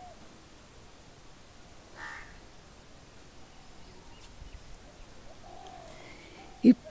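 A bird calling a few times, faintly, over quiet outdoor background, with a short sharp click near the end.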